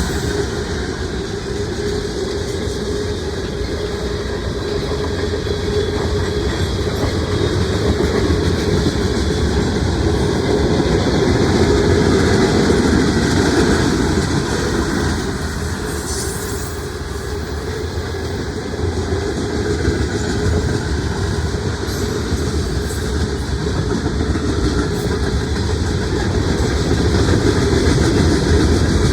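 Mixed freight train rolling past, a steady rumble with the clatter of car wheels on the rails.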